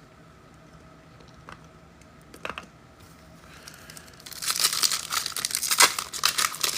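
Trading-card pack wrappers being torn open and crinkled, starting about four seconds in after a few light clicks.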